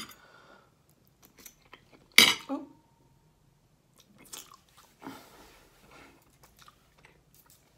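Close-up chewing and wet mouth sounds of someone eating soft pasta and beef, with smacking as she licks her fingers. About two seconds in, a metal fork is set down on a ceramic plate with one sharp clink that rings briefly.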